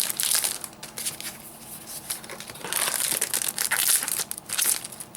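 Foil booster-pack wrappers crinkling and tearing as trading-card packs are ripped open, in several clusters of crackle.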